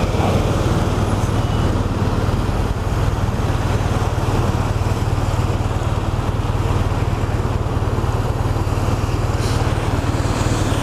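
BMW R1200RT's flat-twin boxer engine idling steadily while the motorcycle waits at a junction, with surrounding road traffic.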